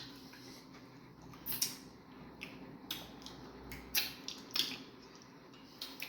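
Close-up mukbang eating sounds of fufu with egusi soup: chewing with a handful of sharp, wet mouth smacks spaced unevenly about a second apart.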